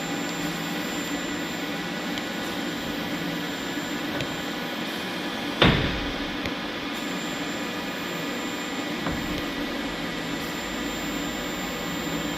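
Takisawa twin-spindle CNC lathe running on a test run: a steady mechanical hum with a thin high whine, and one sharp clunk about halfway through.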